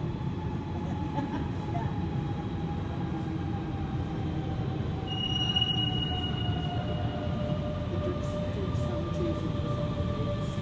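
A train running slowly through the station, its rumble joined by a whine that falls steadily in pitch as it slows. About five seconds in, a brief high wheel squeal.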